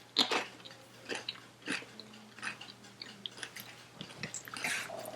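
Close-up chewing of a mouthful of food, with soft, irregular wet mouth sounds a couple of times a second.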